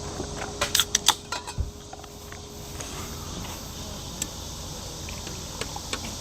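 Insects chirring steadily, with a quick cluster of sharp clicks and knocks about a second in.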